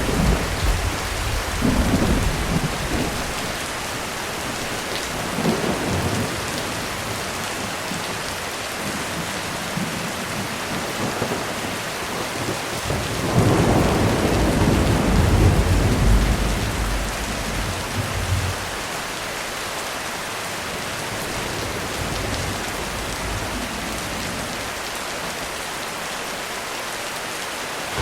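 Heavy rain falling steadily, with thunder rolling in low rumbles; the longest and loudest roll comes about halfway through and dies away over several seconds.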